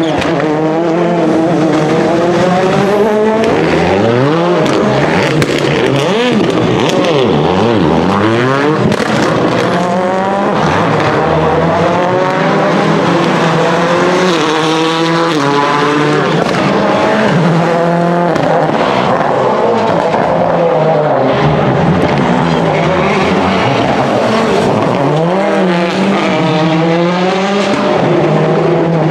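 Rally car engines revving hard, the pitch climbing and dropping again and again as they accelerate and shift gears.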